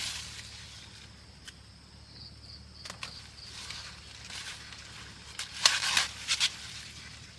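Several short dry rustles or crunches, a cluster of them about two thirds of the way in, over a faint steady high-pitched insect buzz.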